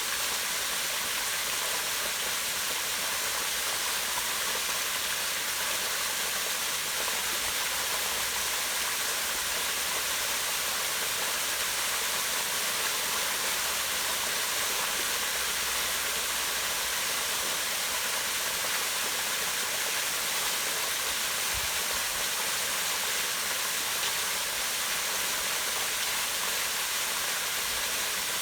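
Waterfall pouring down a rock face into a pond, a steady, unbroken rush of falling and splashing water.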